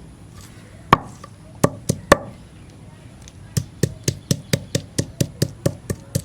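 Chopping with a knife on a cutting board: a few separate chops, then a quick steady run of about five chops a second that starts a little past halfway.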